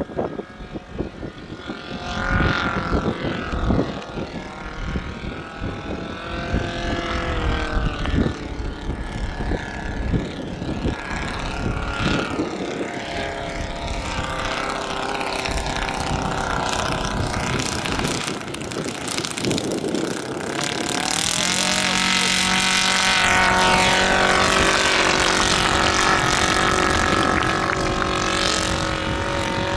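Radio-controlled scale model aircraft engine running in flight, its pitch rising and falling as it passes and as the throttle changes. From about two-thirds of the way through it holds a louder, steady note. Wind rumbles on the microphone underneath.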